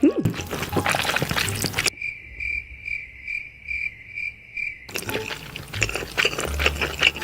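A cricket-chirping sound effect: a high, pulsing chirp about three times a second for about three seconds, with everything else cut out. Before and after it there is dense, crackly clicking noise from the close microphone.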